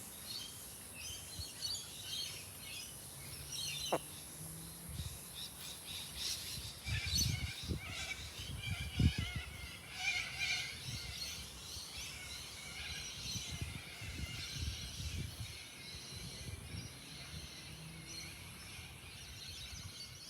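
Birds chirping in many short high calls over a steady high hiss, with a few low thumps about seven to nine seconds in.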